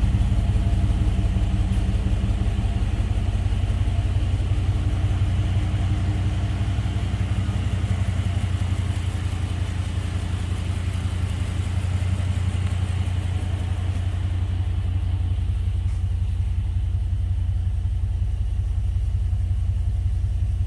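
A 2009 Jeep Grand Cherokee's 5.7-litre Hemi V8 idling steadily with an even, fast pulse.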